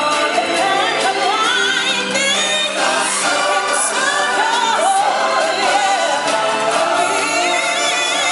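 Music with a choir of voices singing over it.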